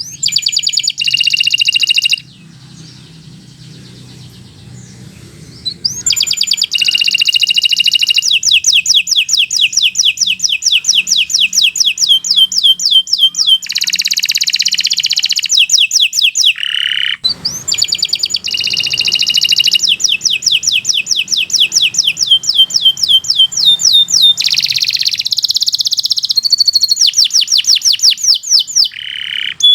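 Domestic canary singing long runs of fast rolling trills and rapid repeated chirps. There is a pause of a few seconds near the start and a brief break about halfway through.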